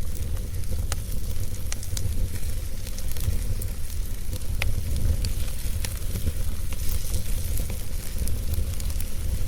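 Wood fire burning, with irregular sharp crackles and pops over a steady hiss, and a low steady rumble underneath.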